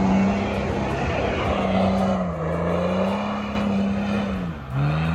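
Four-wheel-drive vehicle's engine running hard under load. Its note sags and recovers, then dips sharply near the end before picking up again.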